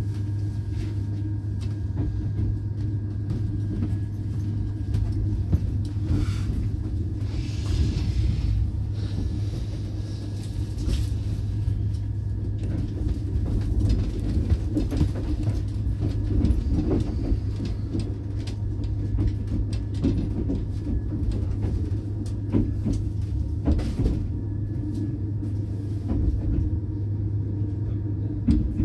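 Interior of a moving passenger train carriage: a steady low rumble with many scattered clicks and knocks from the wheels and coach, and a stretch of hiss a few seconds in.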